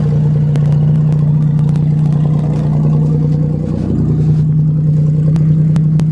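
1990 Buick Century's 3300 V6 idling steadily after a winter cold start, with a slight change in its hum about four seconds in and scattered faint clicks.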